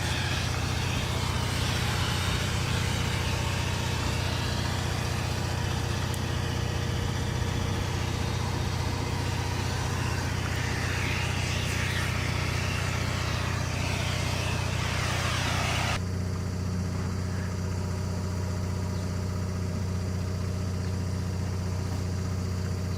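An engine running steadily with a low hum. A loud rushing hiss lies over it and cuts off suddenly about sixteen seconds in.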